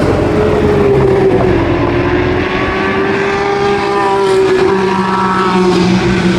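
Shuttle vehicle running at a steady speed, heard from on board: a steady engine hum with a low rumble that eases off about halfway through.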